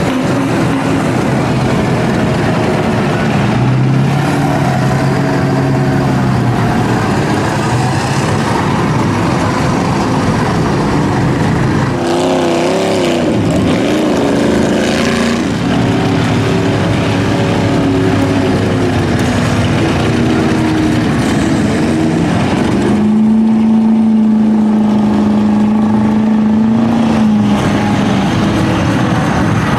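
Loud truck engines running and revving, the pitch holding steady for a few seconds at a time, then shifting, with a wavering stretch of revving about twelve seconds in.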